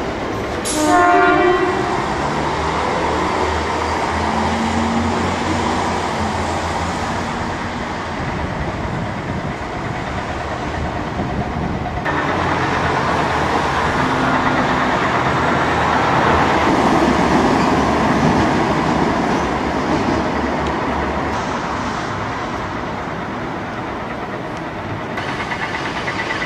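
A 620/720-class diesel railcar running along the line, heard from inside the car: a steady engine drone and wheel-on-rail rumble. A short horn blast sounds about a second in.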